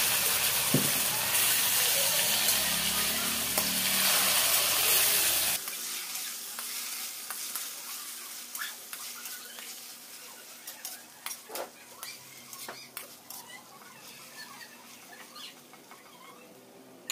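Chicken pieces sizzling loudly in hot oil in a non-stick wok, freshly added. About five and a half seconds in the sizzle drops suddenly and carries on quieter and fading, with the scrape and click of a spatula stirring against the pan.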